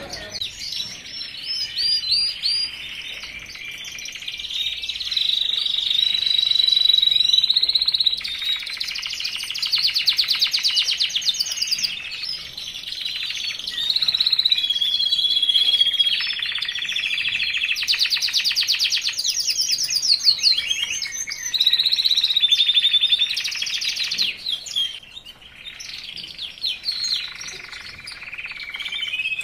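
A male songbird of the kind keepers call 'red robe' singing loud, near-continuous song of rapid trills and chirps, in full breeding-condition form. It breaks briefly a little before the end, then resumes.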